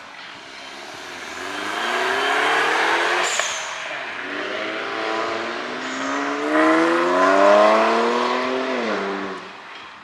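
A car accelerating hard, its engine pitch climbing, dropping sharply at a gear change about three seconds in, then climbing again to its loudest before falling away near the end.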